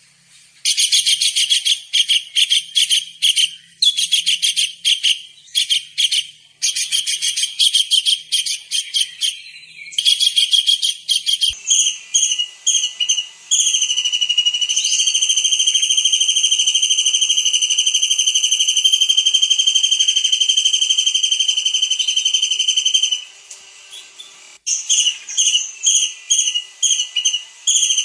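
Kingfisher calling: rapid series of shrill, high chattering notes, then one long, steady, high whistle lasting about nine seconds, then quick notes again near the end.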